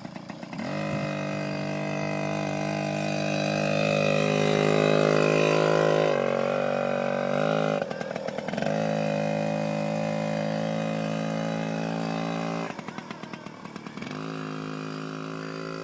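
Kawasaki KDX50's small two-stroke engine running under throttle, its note climbing and getting louder toward the middle. It eases off to a lower note about six seconds in, cuts briefly around eight seconds, and drops to a quieter note for a second or so in the last few seconds before picking up again.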